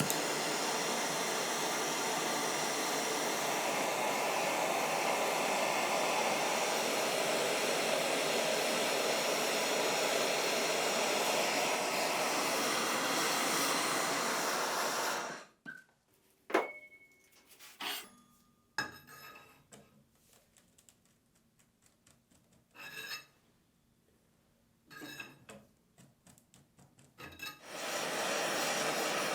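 A workshop power tool runs with a steady, even rush for about fifteen seconds and cuts off suddenly; then come scattered sharp metallic clinks and knocks as gun parts are handled, and the tool starts again near the end.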